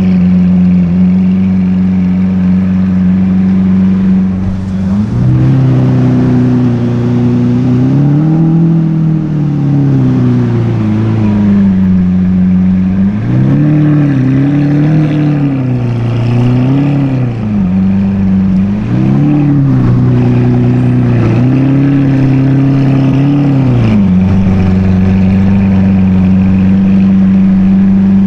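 A sports car's engine idling, then revved several times in a row: one long rev, a run of shorter blips and a last rev held for a couple of seconds, before dropping back to a steady idle near the end.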